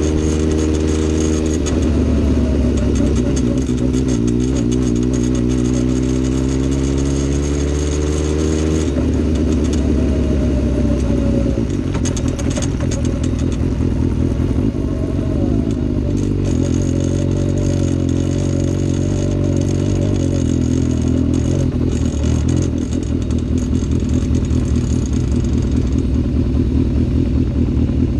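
Vehicle engine running, its pitch drifting up and down a little, with a clattering rattle over it that the owner is trying to diagnose.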